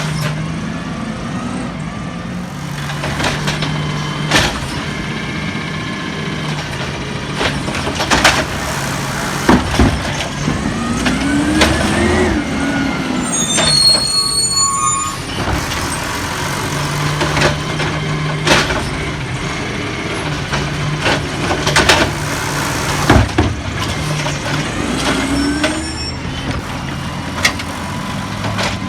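Peterbilt 320 garbage truck working: its engine runs steadily while a mechanism whines up and down in pitch twice, about halfway through and near the end. Sharp knocks and clanks come throughout.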